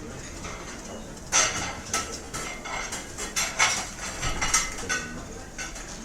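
Restaurant dining-room ambience: plates and cutlery clinking and clattering over a low background hum, with a quick run of sharp clinks starting about a second in.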